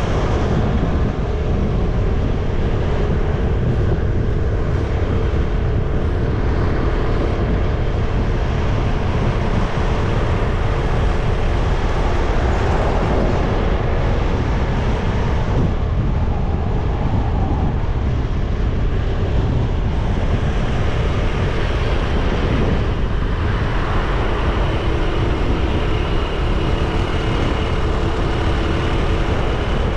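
A motorcycle being ridden: its engine running at a steady pace under a continuous rush of wind and road noise.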